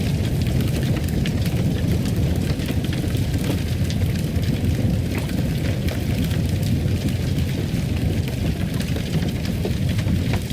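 Fireplace fire crackling: many small scattered pops over a steady low rumble.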